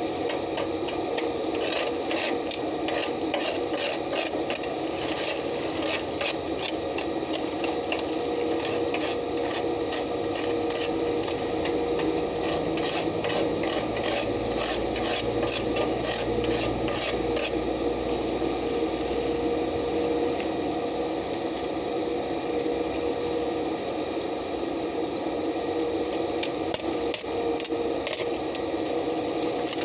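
Stick-welding arc crackling and sizzling without a break as a weld bead is run on steel, over a steady hum.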